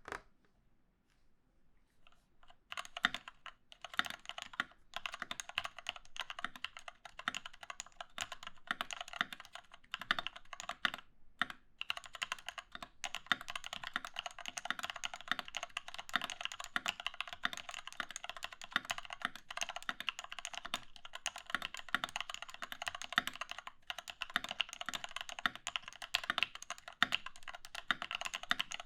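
Typing on a Doro67 mechanical keyboard with an integrated plate, lubed Cherry MX Retooled Black linear switches on 62 g springs, and XDA keycaps. A fast, steady stream of keystrokes starts about two and a half seconds in, with a couple of brief pauses.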